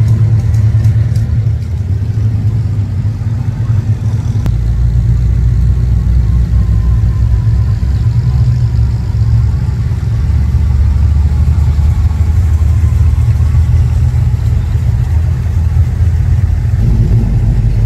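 Classic cars' engines rumbling steadily as the cars drive slowly past one after another, a deep low running sound with light revving.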